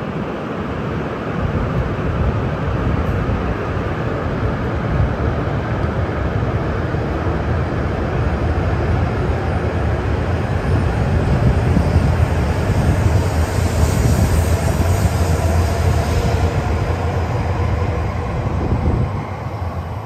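E5 series Shinkansen pulling out of the station and accelerating past the platform. A steady rumble of wheels and running noise grows louder, a faint rising whine comes in during the second half, and the sound fades near the end as the last cars leave.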